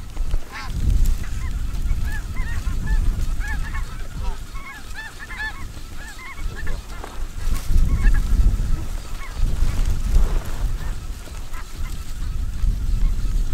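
A flock of snow geese calling, with many high honks overlapping thickly for the first half and thinning out later. A low rumble under the calls swells and fades several times.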